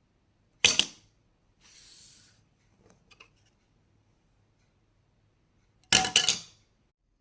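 Credit cards dropped onto a hard surface to compare their sound. There is one sharp clack just under a second in, then a soft sliding sound and a few faint clicks. About six seconds in comes a second drop that bounces with several quick rattling clacks.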